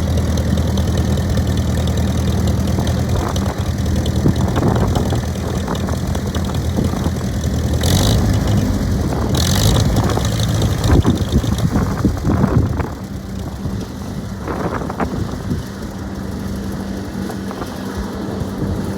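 1940 McCormick W4 tractor's gasoline engine running at a steady idle. The sound roughens through the middle, with a couple of sharp noisy spikes, then settles and drops in level about two-thirds of the way through.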